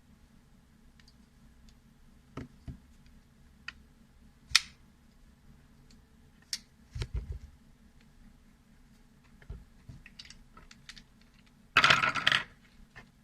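Light clicks and taps from a folding knife and small metal tools being handled while the knife is reassembled and its pivot adjusted. One sharp tick comes about four and a half seconds in, a small cluster of clicks at about seven seconds, and a loud harsh burst of noise, less than a second long, near the end.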